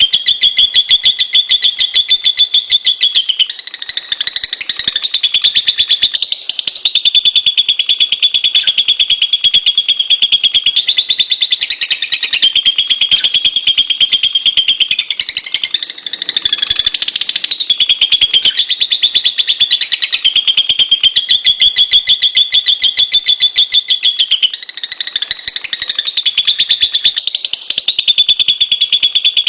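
Lovebird singing a long, unbroken, very fast high-pitched chattering trill, shifting its pitch and pattern briefly every few seconds.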